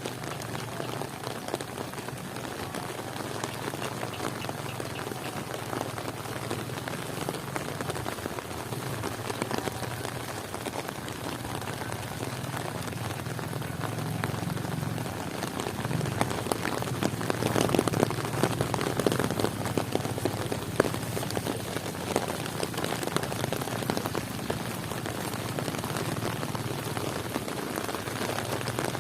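Heavy rain falling steadily, a dense patter of drops that grows louder and heavier for a few seconds past the middle.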